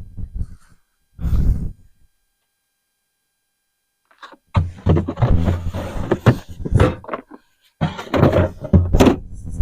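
Thunks and clatter of tools and gear being handled and set down in a plastic storage container: a short burst, a pause, then two longer runs of knocking near the end.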